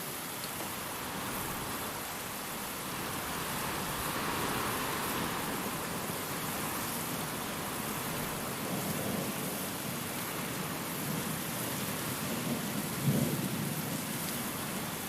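Steady rain with wind, a gust swelling about four seconds in, and a short rumble of thunder near the end.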